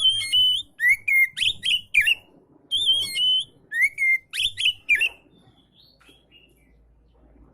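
Oriental magpie-robin (kacer) singing: quick phrases of clear whistled notes sliding up and down, mixed with short sharp notes, stopping about five seconds in.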